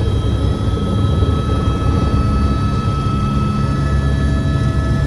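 Helicopter running, heard from inside the cabin: a loud steady low rotor and engine roar with a thin, steady high whine above it.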